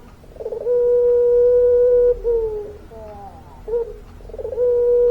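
Puter pelung dove cooing: two long drawn-out coos, each opening with a quick stutter and then held on one steady note for over a second before dropping away, with a few short falling notes between them.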